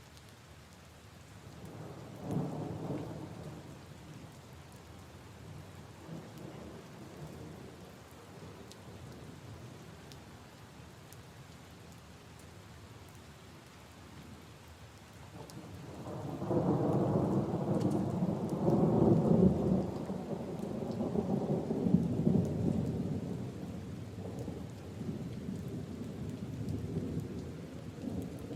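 Steady rain falling, with a short roll of thunder about two seconds in. A longer, louder rumble of thunder rolls in a little past halfway and slowly fades over several seconds.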